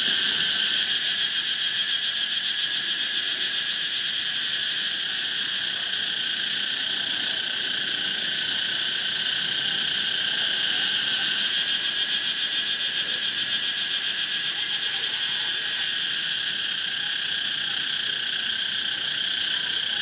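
Pompania cicada singing: a continuous, steady, high-pitched buzz without breaks.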